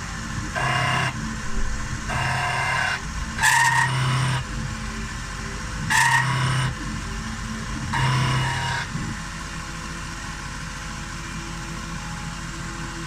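Stepper-driven axes of a home-built CNC milling machine making five short moves, each a brief whine lasting under a second, two of them rising in pitch as they start. A steady machine hum runs underneath.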